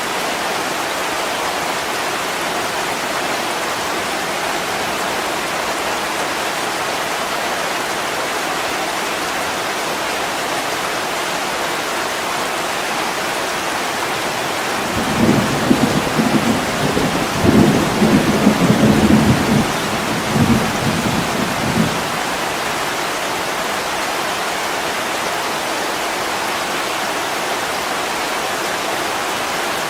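Heavy rain falling steadily on a window, with a roll of thunder about halfway through that rumbles low in several surges for around seven seconds before dying away.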